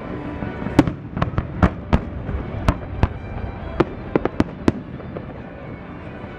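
Fireworks bursting overhead in a quick, irregular string of sharp bangs, about a dozen between one and five seconds in.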